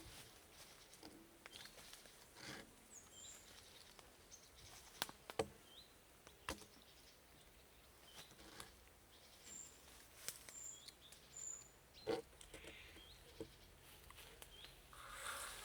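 Quiet woodland ambience with a few short, high bird chirps and scattered sharp clicks or snaps, the loudest about five and twelve seconds in.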